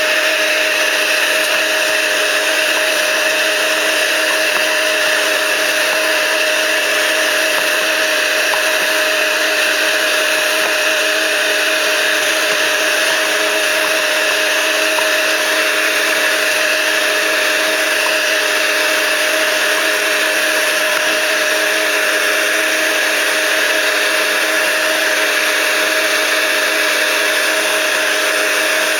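Vacuum cleaner running steadily, a constant motor whine over a broad rushing hiss that holds at the same level throughout.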